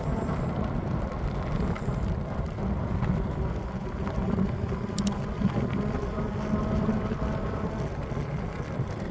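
Steady wind rumble on the microphone with rolling noise from a moving bike.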